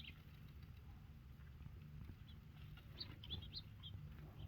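Small songbirds chirping faintly: a few short, high chirps, with a quick cluster about three seconds in.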